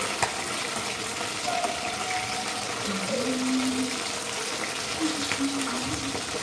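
Chicken pieces sizzling in hot oil in a steel kadai while a metal spatula stirs them, with scattered clicks and scrapes of the spatula against the pan.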